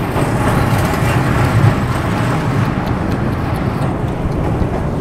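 Narrow-gauge passenger train running over a steel girder bridge: a steady rumble of the coaches' wheels on the rails, heard from the open coach window.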